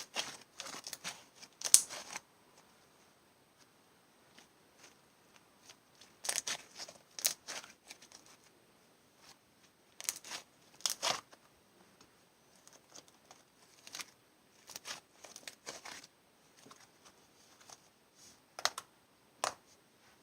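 Clear slime full of air bubbles being squeezed and stretched by hand, giving bursts of crackling and popping clicks from the trapped bubbles, in several clusters with quiet gaps between.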